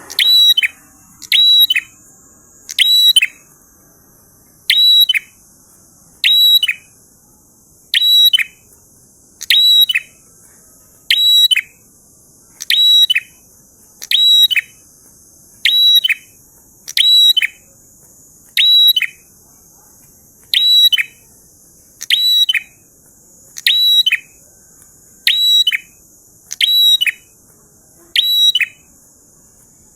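A prinia (prenjak) singing: short, sharp, high phrases repeated steadily about once every second and a half, with a faint steady high hiss underneath.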